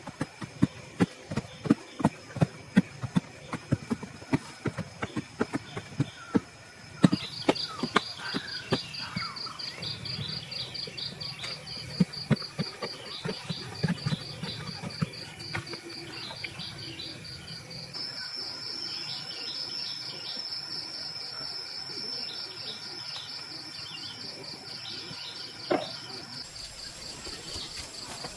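Sharp knocks, about two a second, for the first several seconds. Then a fast-pulsing, high-pitched insect chirr, cricket-like, comes in and carries on, with scattered knocks for a while and a single knock near the end.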